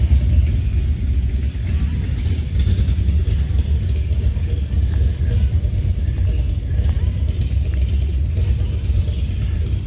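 Low, steady rumble of classic car and hot rod engines running as cars roll in, with voices faintly in the background.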